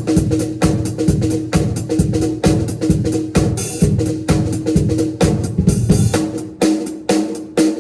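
Drum kit played in a steady beat during a sound check, with hits about twice a second. The lowest notes drop out for about a second near the end, then come back.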